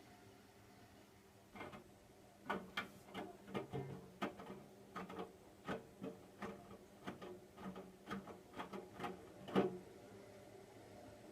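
Hotpoint washing machine turning its drum during a cotton wash: laundry tumbling inside, giving irregular soft knocks and clicks about two a second over a faint motor hum, which stop near the end.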